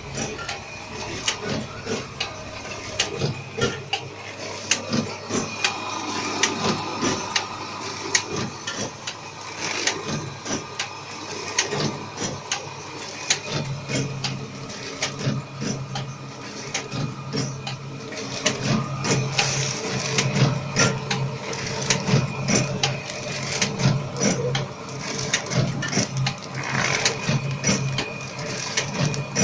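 Snack packing machine running, with a rapid stream of mechanical clicks over a low hum that grows stronger about halfway through.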